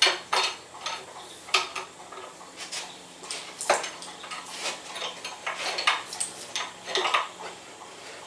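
Irregular metal clinks and clanks of a hand wrench working on a hose fitting clamped in a vise while it is tightened.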